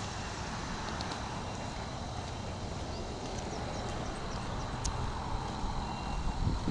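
Park ambience: a steady low rumble of traffic with a few short, high bird chirps over it.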